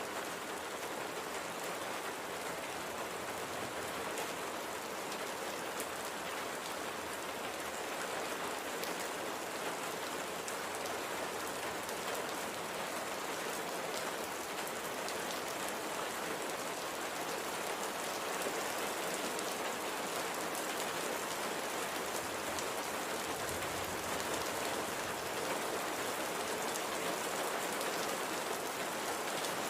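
Steady rain falling, an even patter of many drops on a surface with faint individual drop ticks through it.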